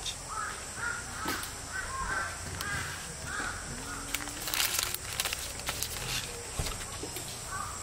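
Birds giving short, harsh calls again and again, with a run of sharp clicks and taps in the middle that is the loudest part, over a steady high hiss.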